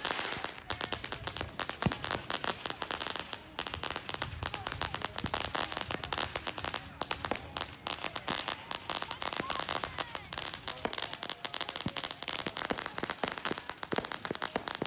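Fireworks going off in a dense, continuous run of rapid small pops and bangs, many every second without a break, like a long string of firecrackers.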